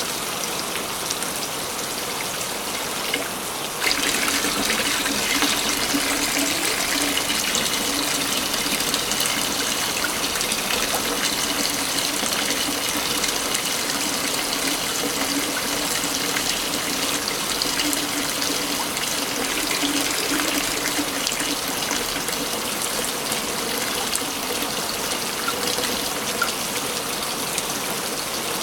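Waterfall, a steady rush of falling water that turns slightly louder and brighter about four seconds in.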